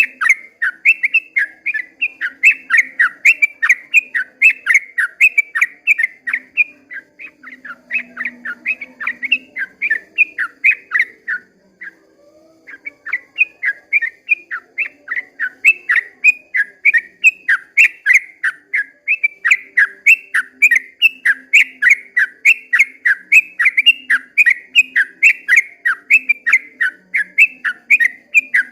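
Yellow-vented bulbul (trucukan) singing a long, fast run of sharp, whistled notes, about three to four a second, breaking off briefly a little before halfway and then resuming.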